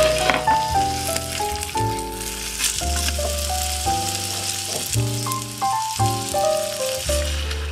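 Chicken pieces and green papaya sizzling in a miniature stainless-steel pot, under background music with a melody of held notes over a bass line.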